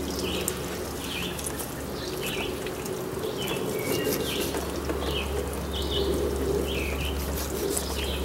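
A bird chirping repeatedly, a short call about once a second, over a steady low hum.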